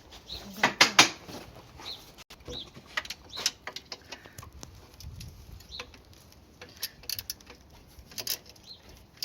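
Scattered clicks and knocks of tools and metal parts as a motorcycle engine is worked into its frame, loudest in a short clatter about a second in, with short bird chirps in the background.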